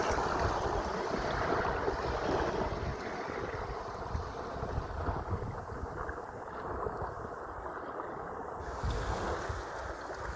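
Sea waves washing and surging, with wind buffeting the microphone.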